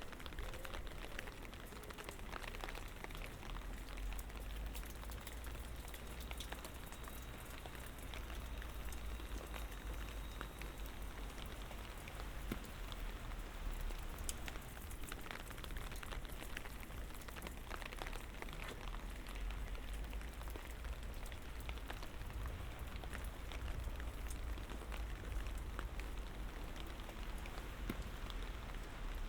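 Light rain falling, with many small drop ticks throughout over a steady low rumble.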